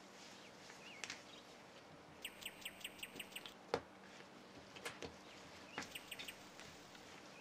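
Faint bird chirping: a quick run of about eight short chirps a couple of seconds in, and another cluster about six seconds in. Between them come two sharp clicks, and a faint steady hum runs underneath.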